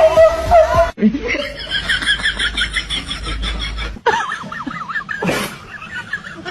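High-pitched giggling laughter, a fast run of short pulses after a sudden cut about a second in. It breaks off with another cut, followed by a wavering high voice-like sound and a brief noisy burst near the end.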